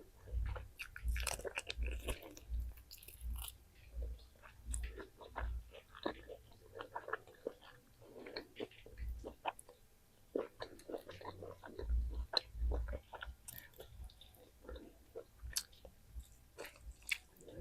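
A person chewing food close to the microphone: wet mouth clicks and small crunches over a steady jaw rhythm of about two chews a second, with a short lull near the middle.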